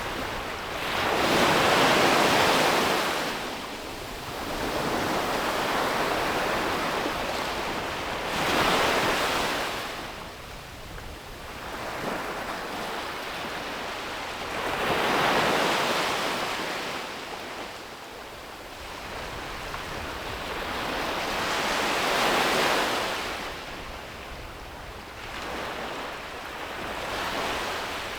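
Sea waves breaking and washing up a beach, each rush swelling and fading every few seconds, about six in all, the loudest about two seconds in.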